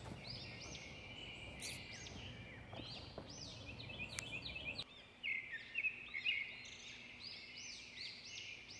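Small songbirds chirping: quick high chirps, one after another, with a faint background rumble that drops away about five seconds in.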